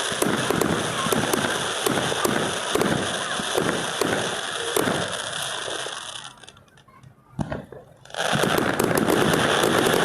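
Fireworks going off: a rapid run of bangs and crackling, a short lull broken by a single bang about three-quarters of the way through, then a dense, loud wash of sound near the end.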